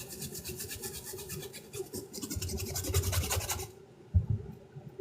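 A brush scrubbing a sneaker in rapid back-and-forth strokes, stopping about three and a half seconds in, followed by a couple of dull knocks.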